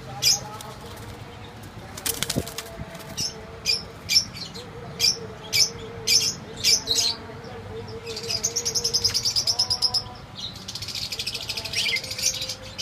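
Small birds chirping: a run of short, high chirps about two a second, then a rapid trill about eight seconds in and a buzzy chatter near the end. A single sharp click about two seconds in.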